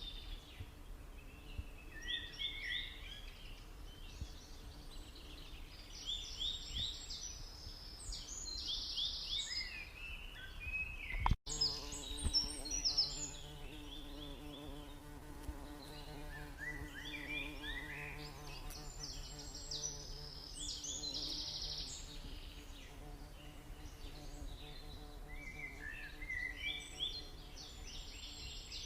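Birds chirping in short bursts of quick high notes, repeating every few seconds. After a brief dropout about a third of the way in, a low steady hum joins underneath.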